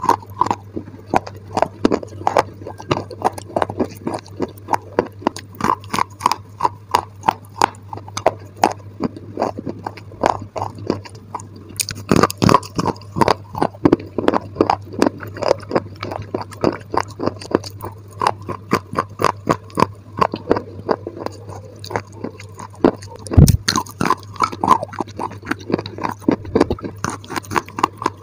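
Close-miked chewing and crunching of edible clay sticks: brittle bites cracking in a quick, uneven rhythm of about two to three crunches a second, over a steady low hum. One heavier knock comes near the end.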